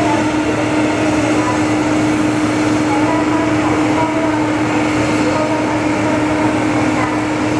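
Boeing 777-200 turbine running on the ramp: a loud, steady whooshing drone with a constant hum, no change in level.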